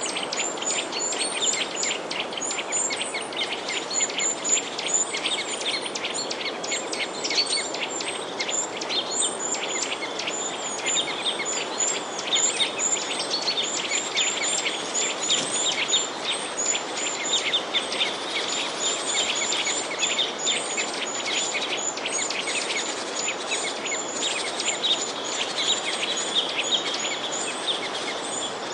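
Many small birds chirping and twittering together, a dense, unbroken chorus of short high notes over a steady background hiss.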